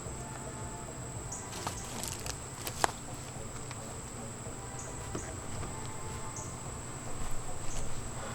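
Honeybees buzzing steadily around a disturbed hive, with a few knocks and clicks, the sharpest a little under three seconds in.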